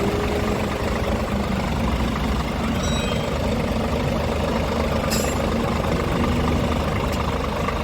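Scania R450 truck's 13-litre straight-six diesel idling steadily, with a brief click about five seconds in.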